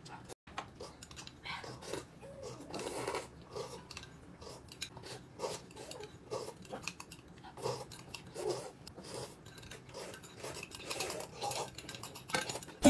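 A person chewing and biting into food at close range, an irregular run of short eating noises.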